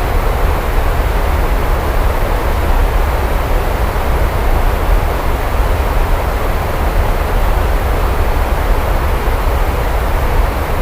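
Steady rain: an even, unbroken hiss with a deep low rumble underneath.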